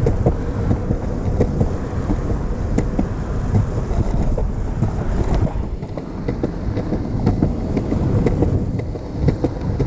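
Longboard's urethane wheels rolling over rough pavement: a steady low rumble with frequent small clicks and knocks as the wheels cross cracks and seams, with wind on the microphone.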